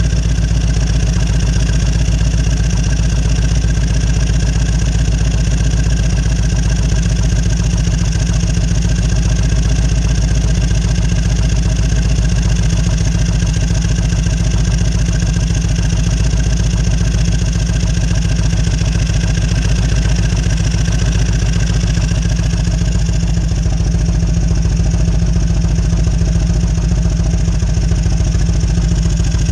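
Fuel-injected 1998 Harley-Davidson Road King's air-cooled V-twin engine running steadily at a constant speed.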